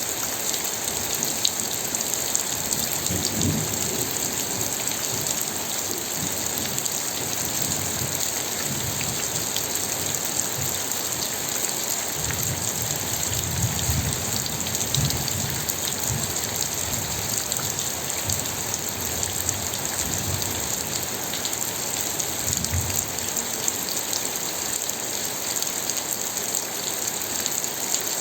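Steady rain falling, a dense even hiss sprinkled with many small drop ticks. A low rumble rises under it about three seconds in and again through the middle of the stretch.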